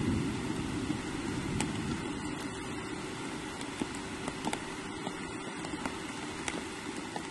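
Steady rain falling on the forest, a low rushing hiss that slowly eases, with scattered sharp drip ticks.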